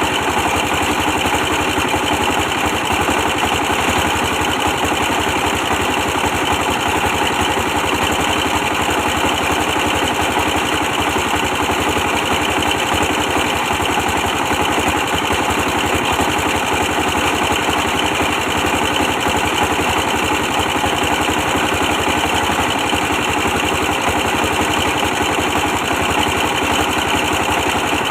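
A 24 hp diesel engine running at a steady speed, driving a brick press machine, with its firing beating evenly throughout.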